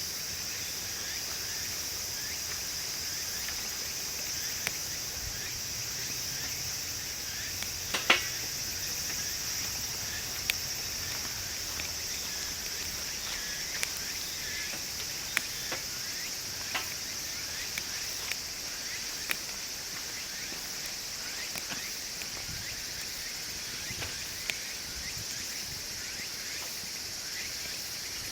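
Wood fire crackling in a wood stove, with sharp pops every second or two, the loudest about eight seconds in, over the steady high chirring of insects.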